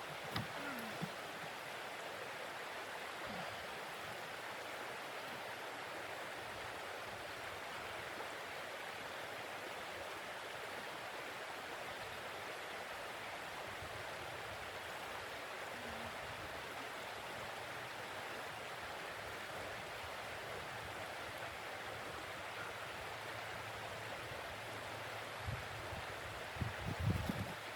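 A steady, even rushing noise, with a few low knocks near the end.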